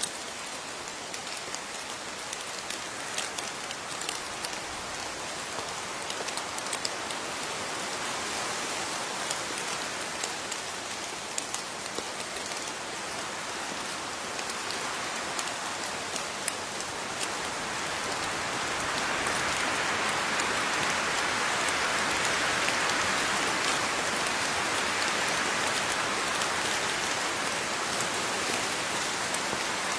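Steady rain falling on a surface, with individual drops ticking throughout; it grows heavier and louder about two-thirds of the way through.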